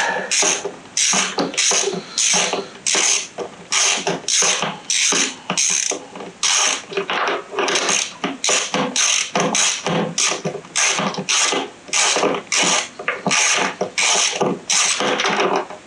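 Ratchet wrench with a spark plug socket clicking as it backs a spark plug out of a small engine: a long, even run of clicks, about two to three a second.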